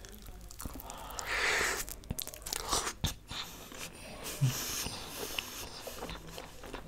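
Close-miked eating sounds of a person biting into a big mouthful of butter naan with curry and chewing it. The chewing comes with many small clicks of the mouth and a louder stretch of chewing about a second in.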